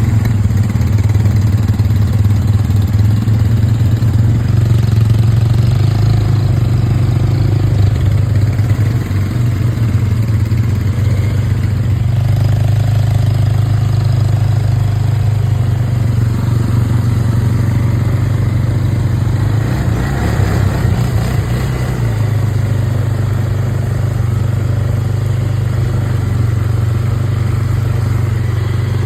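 Engine of a ridden off-road vehicle running at a steady low pitch, with a brief change in its sound about twenty seconds in.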